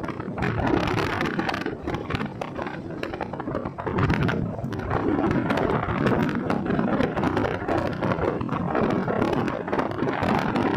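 Wind rushing and buffeting over the microphone of a moving motorcycle, with road and rain noise crackling under it. The noise is uneven, a little lower about two to four seconds in, then louder again.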